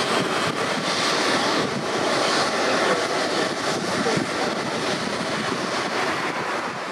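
Airbus A320-214's CFM56 jet engines running with a steady roar as the airliner rolls out and brakes on the runway after landing, with wind buffeting the microphone.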